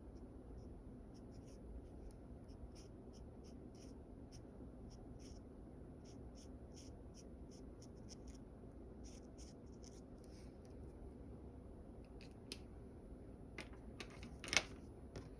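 Pencil sketching on paper: a quick run of short, faint scratchy strokes, a few each second, over a low background hum. Near the end come a few sharp clicks, the loudest about a second before the end.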